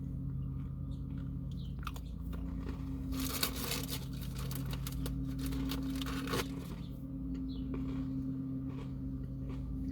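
Crunching and chewing of an Oreo sandwich cookie with popping candy in the filling, close to the microphone, densest from about three to six seconds in. A steady low hum runs underneath.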